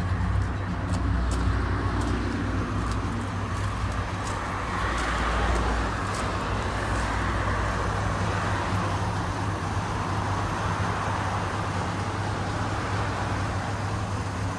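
A car engine idling steadily: a low, even hum under a steady hiss.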